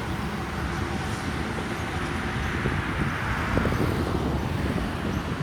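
Jet engine noise from a Boeing 737-800's CFM56-7B engines on final approach, a steady rushing drone that swells to a peak about halfway through and then eases slightly.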